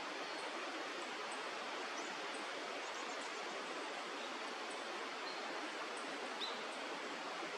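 Steady rushing of stream water, with faint, short, high bird chirps repeating over it about once a second.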